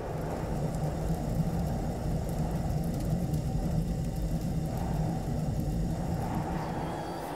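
A car engine running at a steady low drone, with no sudden revving.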